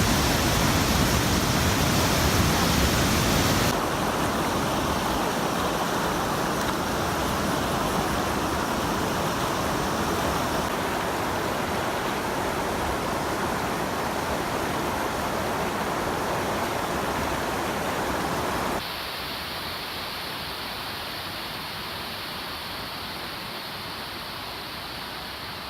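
Steady rushing of Fukiwari Falls' water. The level and tone drop abruptly twice, a few seconds in and about three quarters of the way through, then slowly fade.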